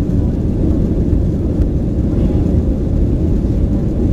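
Steady low cabin noise inside a Boeing 737-900 in flight: the drone of its CFM56-7 engines and the rush of air over the fuselage.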